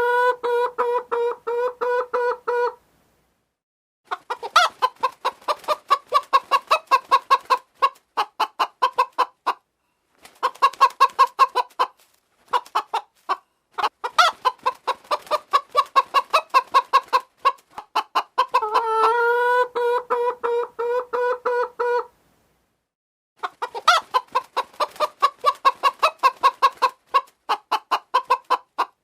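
Chicken clucking in runs of quick clucks broken by short pauses, with a drawn-out call at the start and again about two-thirds of the way through.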